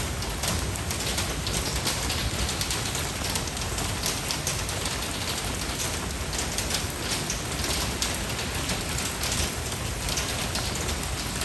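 Steady rain falling, a continuous hiss with a dense patter of individual drops hitting a surface.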